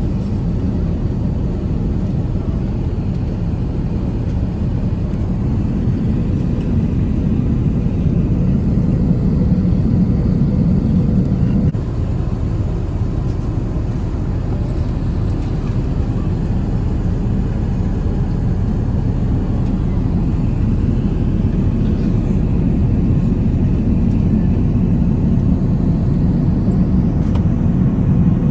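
Steady low rumble of an Airbus A380-861's cabin noise, with engine and airflow sound heard from inside the passenger cabin.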